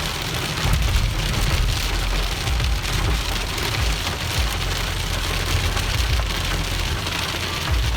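Heavy rain falling steadily on hard surfaces during a thunderstorm, with a low rumble running underneath.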